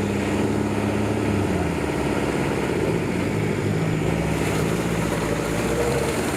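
Off-road 4x4 vehicle's engine running under load. The revs drop about two seconds in and climb again a couple of seconds later.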